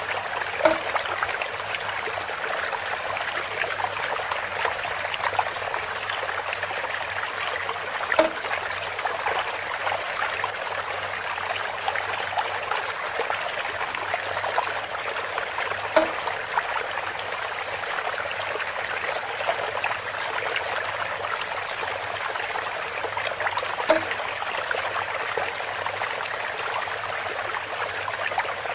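Water trickling steadily through a bamboo spout, with a short, louder plop about every eight seconds, four in all.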